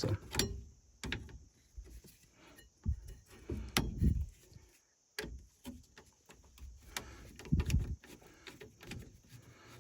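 Scattered clicks and clunks of hand tools and metal parts being handled while bolts are taken out of a steering column, with a few dull thuds.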